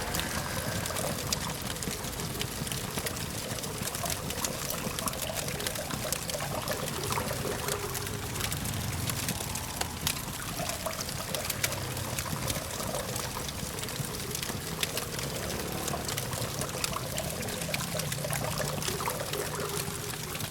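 Campfire crackling, with many small sharp pops and snaps, over a steady low hum of distant traffic.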